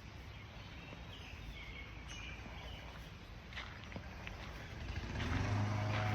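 Outdoor background rumble with a few faint bird chirps, then an engine's steady low drone comes in about five seconds in and quickly grows louder.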